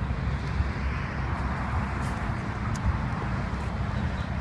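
A car's engine running close by, a steady low rumble with a hiss of noise that swells around the middle.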